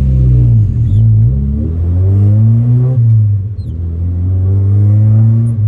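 1990 Mazda Miata's 1.6-litre four-cylinder engine pulling hard, its pitch climbing and then dropping sharply about a second in, around three seconds in, and near the end, as it changes gear.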